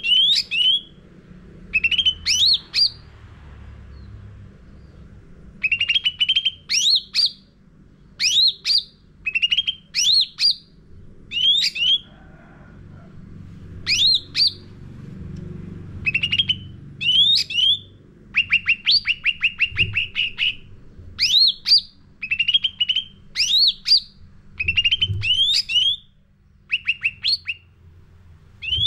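Cucak ranting songbird singing in loud, short phrases of sharp upward-sweeping whistled notes, repeated every second or two with a few brief pauses, and a fast run of chattering ticks about two-thirds of the way in. This is the full, vigorous 'gacor' song that keepers play to lure other birds into singing.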